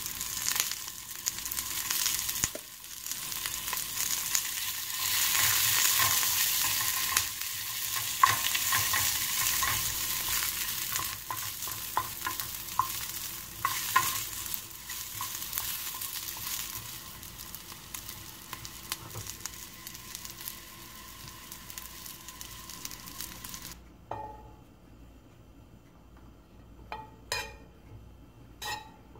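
Sliced onions frying and sizzling in oil in a nonstick pan, with the clicks and scrapes of a wooden spatula stirring them. The sizzle cuts off suddenly near the end, leaving a few short scrapes of a knife spreading butter across a dry pan.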